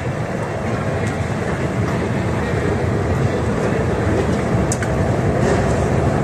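Train rumbling steadily and slowly growing louder, with a brief high squeak a little before the five-second mark.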